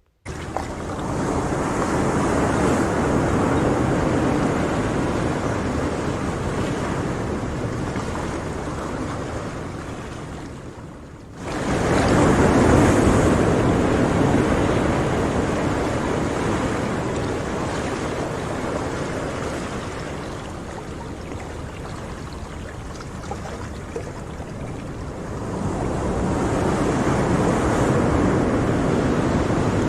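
Sea surf breaking and washing in, a rushing noise that swells and ebbs over several seconds. About eleven seconds in it dips and then comes back suddenly louder.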